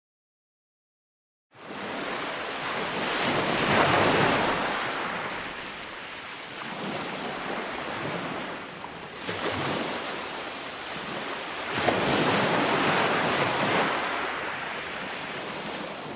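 Ocean surf: waves surging and washing in repeated swells, each rising and falling over a few seconds, three big surges in all. The sound cuts out completely at the start and fades back in about a second and a half in.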